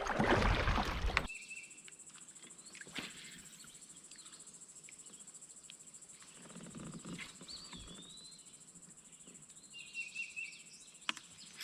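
Riverside ambience: a steady high insect drone of crickets or cicadas, with a few short bird chirps and one whistled bird call in the middle. A second of loud noise at the start cuts off abruptly.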